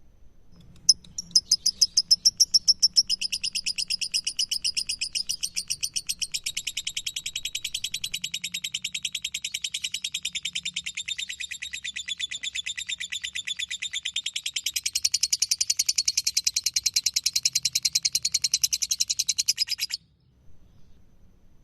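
Lovebird singing a long 'ngekek': a rapid, unbroken chatter of high chirps. It starts about a second in, runs for nearly twenty seconds and cuts off suddenly.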